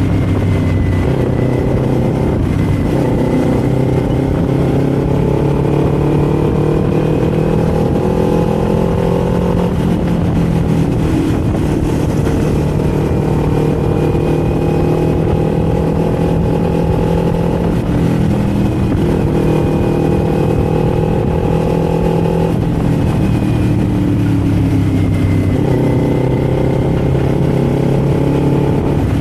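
Kawasaki Z400's parallel-twin engine and exhaust under way, its note climbing steadily through several long pulls, each broken off by a drop in pitch as it shifts up. Near the end the note falls for a few seconds as it slows, then climbs again.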